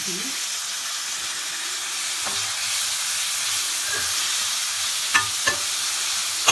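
Chicken, beef and vegetables sizzling in oil in a large stainless-steel pot while being stir-fried, with a steady hiss. A metal spoon clicks against the pot a few times, sharpest about five seconds in.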